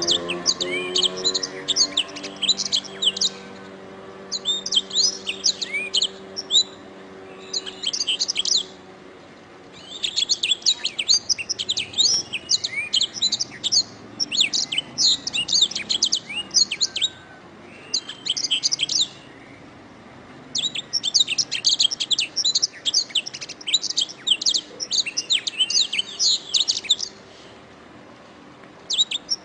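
Domestic canary singing: rapid high-pitched trills and chattering phrases in bursts of a few seconds, separated by short pauses.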